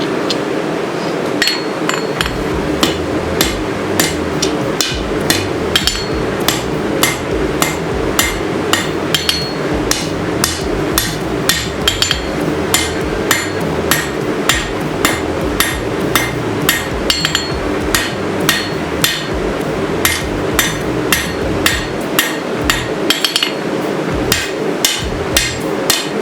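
Hammer blows on the hot steel of a sword blade's tang being forged down on an anvil, about two to three sharp strikes a second, with a steady hum underneath.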